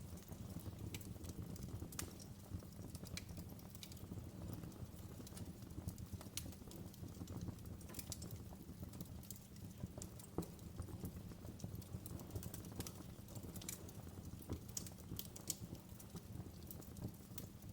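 Wood fire in a fireplace crackling: irregular sharp pops and snaps, several a second at times, over a low steady rumble.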